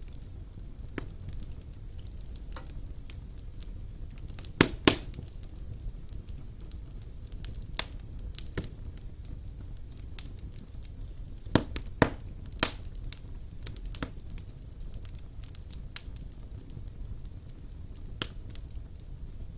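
Wood fire burning in a fireplace: irregular crackles and sharp pops of burning logs over a steady low rumble of the flames, with a pair of loud pops about five seconds in and a cluster of loud pops around twelve seconds.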